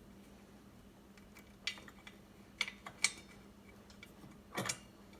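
Light metallic clicks and clinks as washers and steel parts of a hand grain grinder are handled and fitted onto its shaft: a few separate taps, the loudest a knock near the end.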